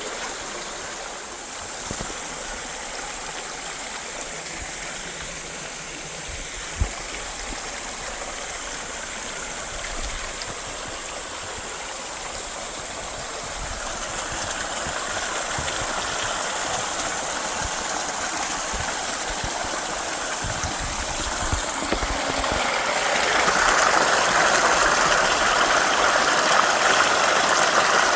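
Mountain stream rushing steadily, growing louder about halfway through and louder again near the end. A single sharp knock comes about a quarter of the way in.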